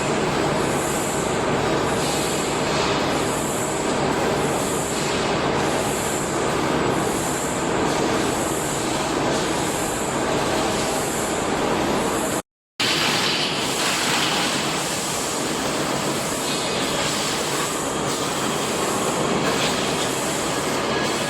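Tire-derived-fuel shredding machinery running: a steady, loud grinding din with a faint pulse in the high end about every two-thirds of a second. About midway the sound drops out suddenly for half a second, then carries on.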